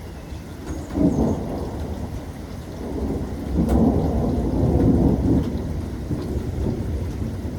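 Thunder rumbling over steady rain: a sudden crack about a second in, then a longer rolling rumble from about three to five and a half seconds.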